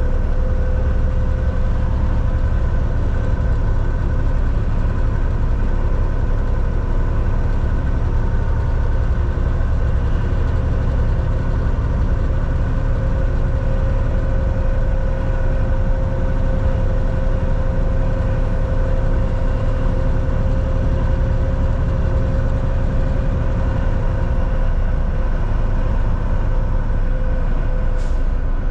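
Volvo VNL 760 semi-truck cruising at steady speed, heard from inside the cab: a steady low engine and road rumble with a constant drivetrain whine. A single short click near the end.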